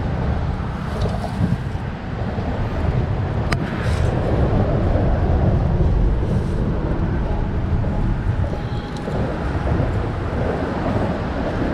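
Wind buffeting the microphone outdoors: a steady low rumble, with a single sharp click about three and a half seconds in.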